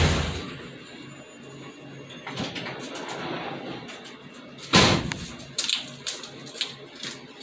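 1988 GMC Sierra's 5-liter V8 shutting off, its sound dying away within the first half second. Then quiet, with one loud thump nearly five seconds in, followed by a run of lighter clicks and knocks.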